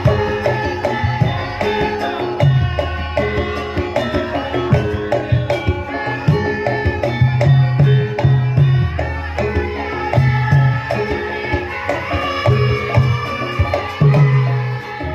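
Javanese gamelan playing Wonosobo lengger dance music: hand-drum (kendang) strokes beating a rhythm under held, ringing tones from the bronze instruments.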